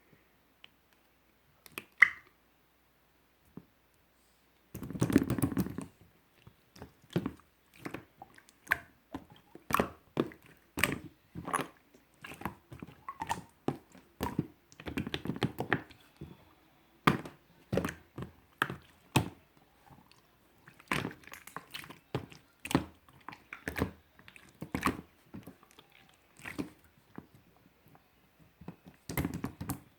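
Slime being squished and pressed by hand: irregular short wet clicks and crackles, about one or two a second, starting about five seconds in.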